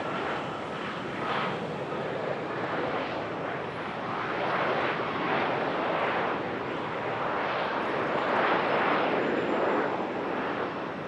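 Airplane engine noise close by on the runway: a continuous rushing sound that swells and eases in waves, loudest about eight to nine seconds in.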